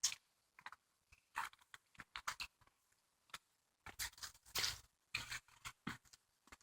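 Faint, scattered clicks and scuffs of footsteps and of a hand-held smartphone being jostled while walking, with brief dead gaps between them.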